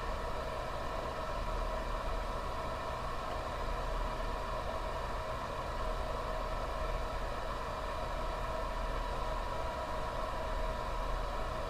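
A steady mechanical hum with several faint, steady whining tones.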